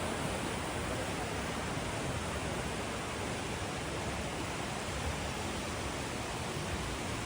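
Steady rushing of river rapids: an even, unbroken hiss of fast-flowing water.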